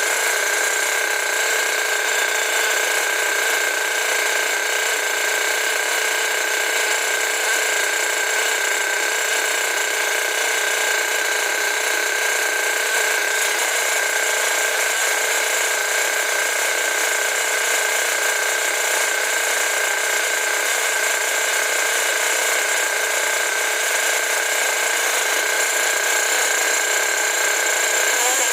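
Freshly rebuilt Force .32 two-stroke nitro (glow) model engine running steadily at a raised idle, a constant high-pitched buzz with no change in speed.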